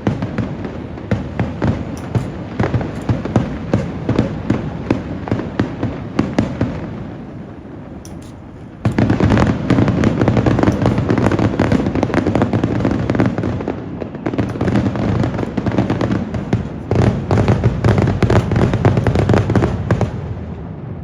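Fireworks finale: aerial shells bursting in a rapid, dense run of bangs and crackles. The bursts ease off around seven seconds in, then a sudden, louder second barrage starts about nine seconds in and keeps going until near the end.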